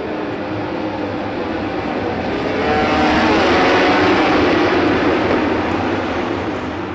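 MotoGP racing motorcycle engine at high revs going past, growing louder to a peak about halfway through and then fading away.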